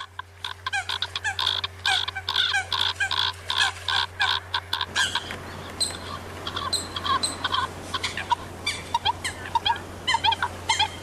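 Eurasian coots calling as a flock: many short, sharp calls overlap rapidly for the first five seconds or so, then thin out to scattered single calls. A steady low electrical hum runs underneath.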